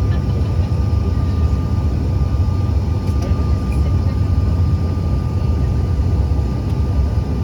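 Steady engine noise of a regional jet heard from inside the passenger cabin: a loud, even low rumble with a thin steady whine above it.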